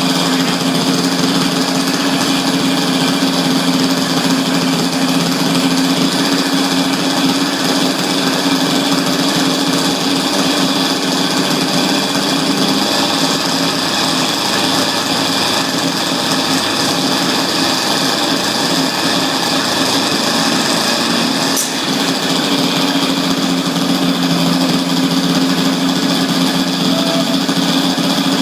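Small gasoline engine of an RC quadcopter running steadily at a constant speed, with a single brief tick about three-quarters of the way through.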